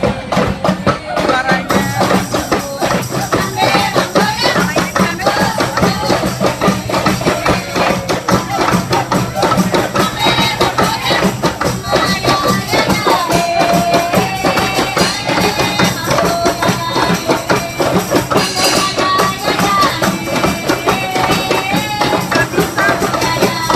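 A rampak ensemble of drums and percussion playing a fast, dense rhythm together, with a melody of held, stepping notes over it.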